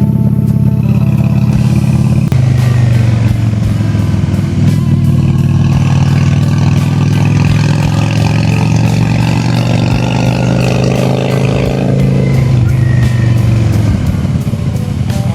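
Honda Shadow V-twin cruiser engine running on the move. Its note drops about two seconds in, climbs steadily through the middle as the bike accelerates, and falls away near the end.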